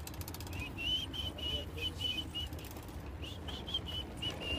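A small bird chirping: two runs of quick, short high notes with a pause between them, over a steady low rumble.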